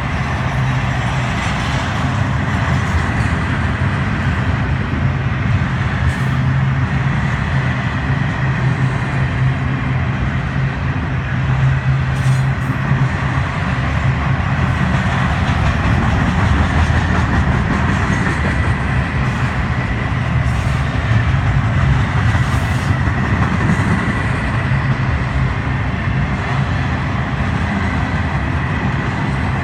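Florida East Coast Railway freight train rolling steadily past, a continuous loud rumble of wheels on rail.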